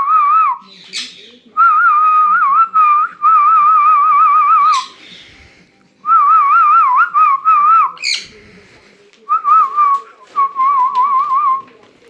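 Clear, loud whistling in warbling phrases of a second or two, each trilling rapidly around one pitch, with a few short sharp chirps between the phrases.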